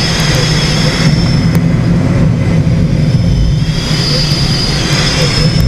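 Steady drone of a small aircraft in flight, engine and wind noise running evenly with a thin high whine above them.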